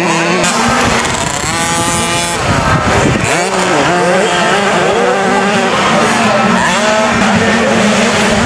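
Several 50cc two-stroke motocross bikes racing, their engines revving up and down with many whining pitches overlapping.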